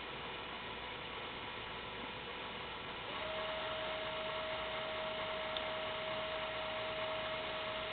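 Brushed DC motor driven by a Sabertooth motor controller, running with a steady whine over a hiss; about three seconds in the whine steps up in pitch and gets a little louder as the commanded speed changes to its next step.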